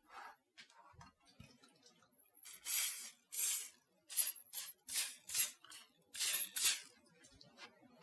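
Silicone spatula scraping cake batter around a bowl, about ten quick scraping strokes in a row starting a couple of seconds in.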